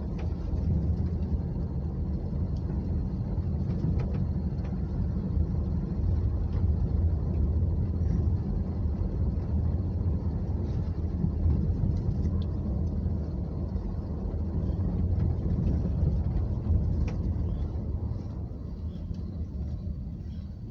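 Steady low rumble of a car's engine and tyres heard from inside the cabin while driving on a snowy road, getting quieter near the end.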